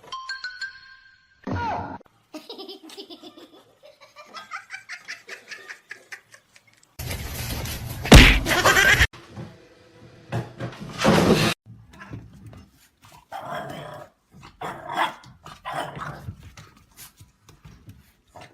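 People laughing, mixed with dog sounds, across several short clips that cut in and out abruptly.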